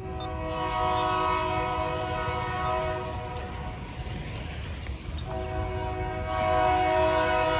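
Diesel freight locomotive's air horn sounding two long blasts: the first lasts about three seconds, and the second starts about five seconds in and is still going at the end. Each blast is a chord of several steady notes, heard over a low, steady rumble.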